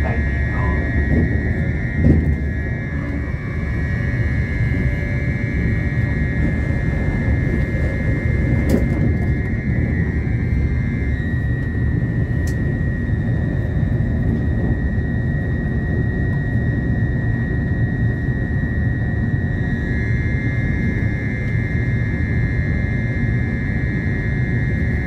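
Steady rumble of a passenger train running at speed, heard from inside the carriage, with a steady high whine over it.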